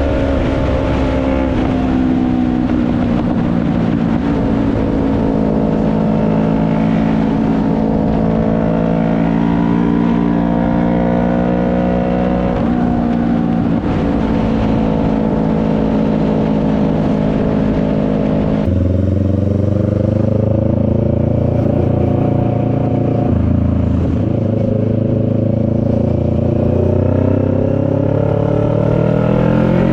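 CFMoto 400NK's parallel-twin engine pulling the motorcycle along, heard from a helmet chin mount with wind rush. The engine pitch drifts up and down, then about two-thirds through the sound suddenly changes to a deeper, stronger engine note with less wind. The revs rise near the end.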